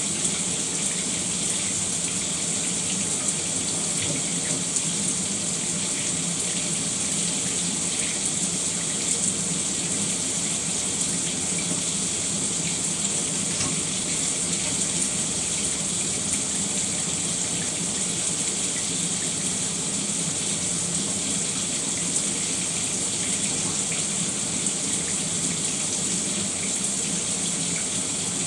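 Shower running steadily, a constant spray of water falling and splashing.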